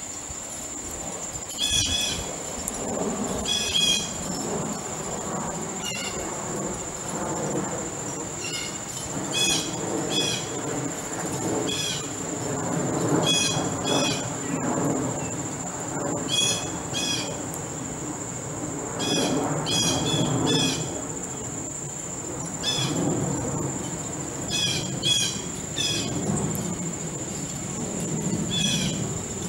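Small birds chirping in short high bursts every second or two over a steady high insect drone, with a low rumble that swells and fades underneath.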